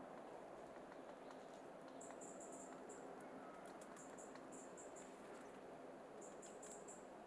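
Faint, very thin, high-pitched calls of a small bird: short notes in quick runs, three times, with a few faint clicks among them.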